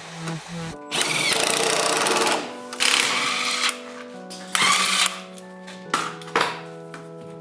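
Impact wrench hammering on the X5's subframe bolts in three bursts, the first and longest over a second, each opening with a short rising whine. Background music with sustained notes plays underneath.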